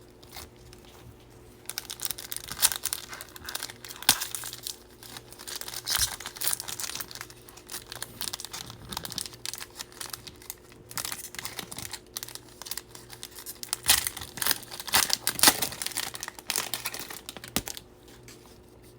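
A Bowman baseball card pack's foil wrapper being torn open and crinkled by hand, starting about two seconds in and stopping shortly before the end.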